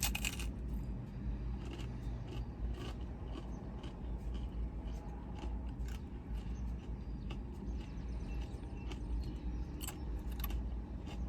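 Paper and plastic food wrappers rustling and crinkling in short bursts, with louder crackles at the start and near the end, over a steady low hum.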